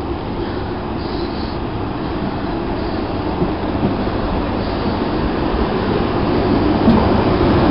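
Class 90 electric locomotive hauling Royal Mail Class 325 mail units pulls into the platform and passes close by. Its running noise and wheel noise grow steadily louder as it approaches.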